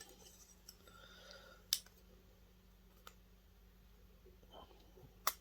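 Three sharp clicks of tools or small metal parts being handled during a teardown: the loudest about two seconds in, a fainter one about three seconds in, and another near the end, over a faint hum.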